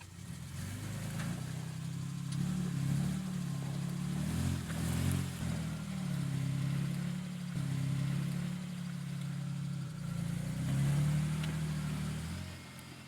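Off-road 4x4's engine working in low gear under load, the revs rising and falling several times as the driver feeds throttle to back out of a slippery spot, then dropping away near the end.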